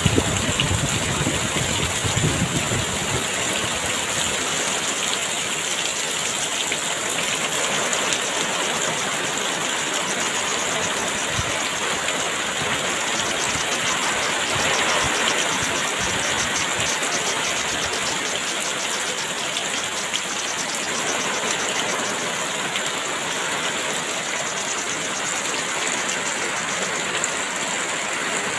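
Heavy rain falling steadily, with a low rumble in the first few seconds that dies away.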